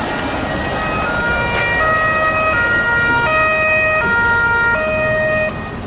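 Electronic two-tone siren, alternating between a high and a low note about every three-quarters of a second, over a steady hiss, stopping shortly before the end.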